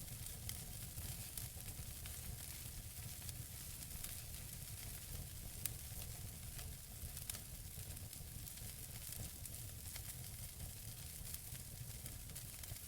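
Wood fire burning in a fireplace: burning logs give a steady hiss over a low rumble, with frequent small crackles and pops and one sharper pop a little past the middle.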